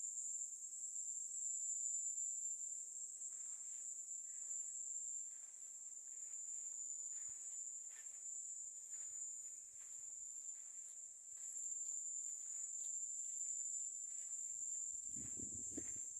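Crickets trilling steadily in one continuous high-pitched band, with faint soft steps and a low knock or handling rumble near the end.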